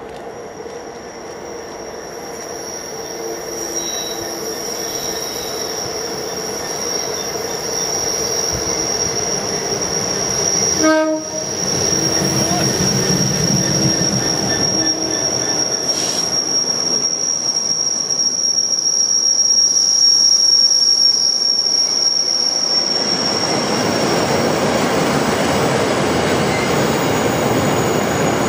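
A Class 66 diesel freight locomotive approaching and passing, its two-stroke diesel engine growing louder, with a steady high-pitched squeal over it. A short loud sound comes about eleven seconds in as the locomotive draws level. Then come the rumble and clatter of a long rake of car-carrier wagons rolling past, louder still, near the end.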